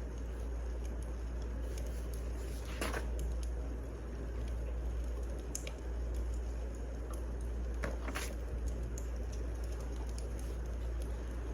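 Wood fire crackling: a steady low rumble with scattered pops, the two loudest about three seconds in and just after eight seconds in.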